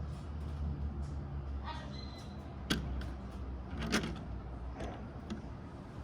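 Two sharp clicks or knocks about a second apart, then a fainter one, over a steady low hum.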